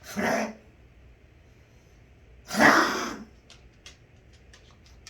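Dog coughing: two short, harsh coughs about two and a half seconds apart, the second louder.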